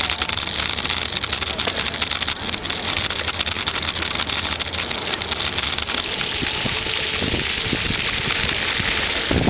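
Riding noise picked up by a compact camera mounted on a bicycle: a steady rushing hiss with a dense fine crackle and rattle from the bike's vibration on the path.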